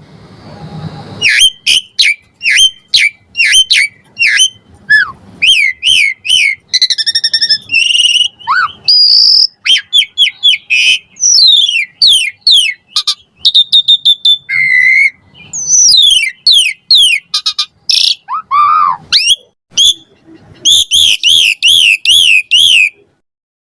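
Pied starling (jalak suren) singing a fast, varied song of whistles, chirps, glides and trills, packed with mimicked phrases. Near the end comes a run of repeated rising-and-falling whistled notes.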